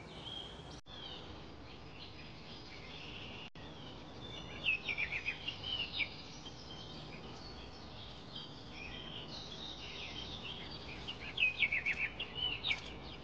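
Wild birds chirping: two bursts of quick, high, falling chirps, about four seconds in and again near the end, over a faint steady background hiss.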